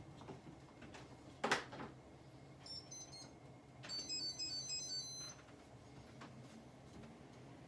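Electronic rice cooker being started: a button click, a short beep pattern, then its brief high-pitched electronic start melody.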